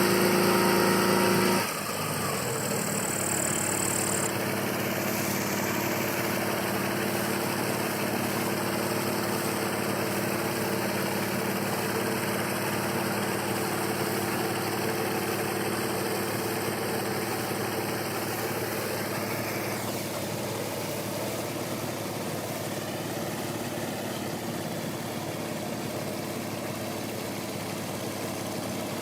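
Engine of a modified Ural motorcycle running at raised speed, then dropping suddenly about two seconds in to a steady idle that carries on.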